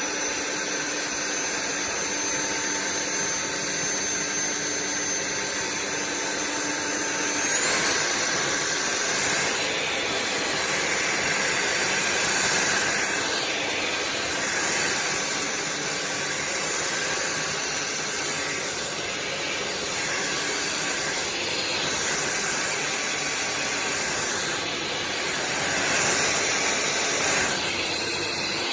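Sulean X8 cordless stick vacuum running: a steady motor whine over a rush of air. About seven seconds in, its pitch steps up and it gets a little louder.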